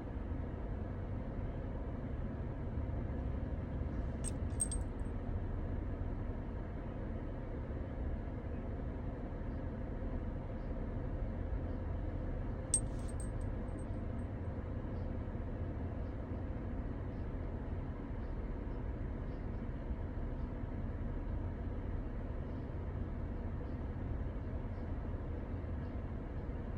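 Steady low rumble of a car, with two brief small metallic clinks, one about four seconds in and another about thirteen seconds in.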